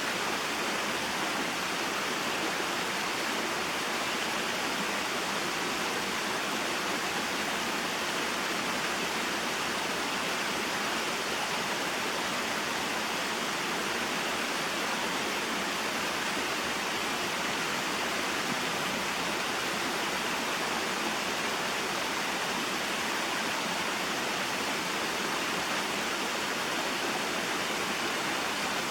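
Small waterfall and mountain stream: water falling and flowing over rocks, a steady even rush with no change.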